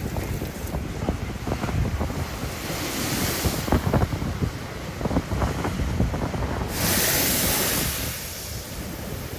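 Storm waves breaking and surging on a sea wall, under heavy wind buffeting the microphone with repeated thumps. A louder rush of breaking surf and spray comes about seven seconds in.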